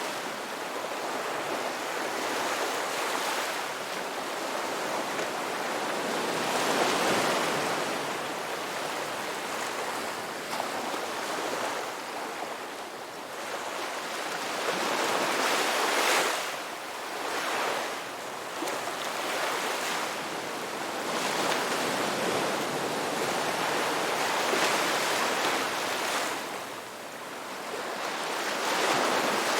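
Ocean waves breaking and washing on the shore, a continuous rush of surf that swells and falls back every few seconds.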